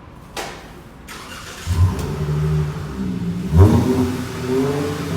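Muffler-deleted Chrysler 300's exhaust: a short sharp sound, then the engine surges up loudly about a second and a half in and again about two seconds later, running loud and deep in between, with no muffler to quiet it.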